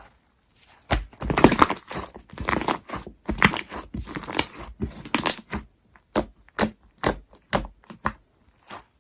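Slime being squished and stretched by hand, giving a dense run of sticky crackling and clicking. Near the end it gives way to single sharp pops about twice a second.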